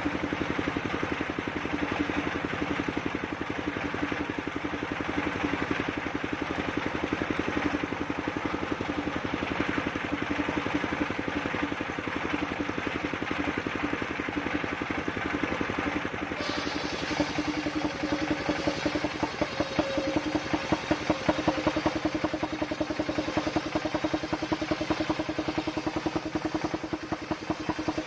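Engine driving a mobile circular sawmill, running steadily with a fast, even firing beat. About 16 seconds in its sound changes and the beat grows louder.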